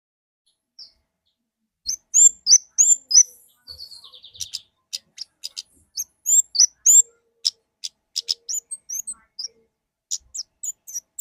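Orange-headed thrush (kemade) singing from about two seconds in: a fast run of loud, high, down-slurred whistled notes mixed with sharp clicks and a short buzzy rattle, coming in bursts.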